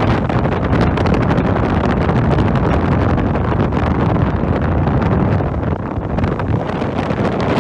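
Strong tropical-storm wind buffeting the microphone: a loud, steady rush heaviest in the low end, with crackling gusts throughout.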